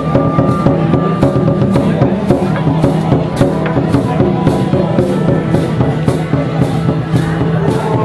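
Percussion music of drums and cymbals beating a steady rhythm, about three strikes a second, over sustained ringing tones.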